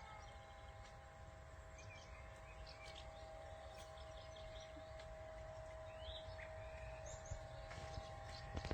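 Small birds chirping now and then over a steady hum with a low rumble underneath.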